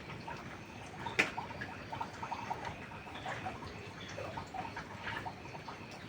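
Wood fire crackling under a steady hiss of rain: many small pops and ticks, with one sharp, loud crack about a second in.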